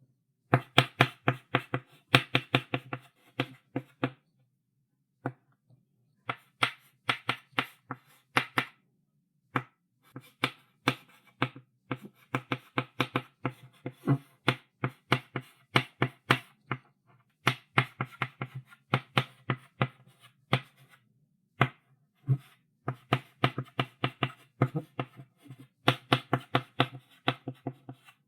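Chalk writing on a blackboard: quick taps and short strokes of the chalk against the board, several a second, in bursts of a few seconds with brief pauses between them.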